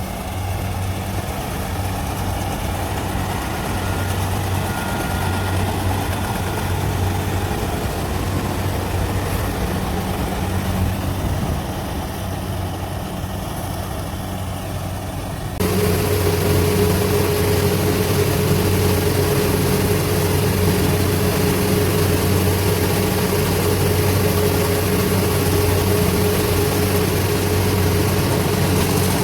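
Diesel engine of farm machinery running steadily at a low hum. About halfway through the sound changes abruptly and gets louder, with a steady whine added.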